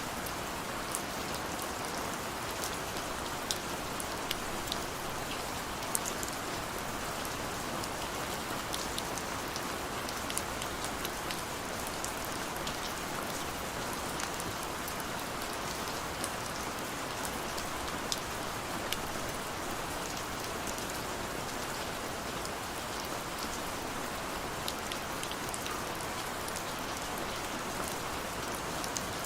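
Steady rain falling, an even hiss with scattered sharp drop ticks and taps against a window.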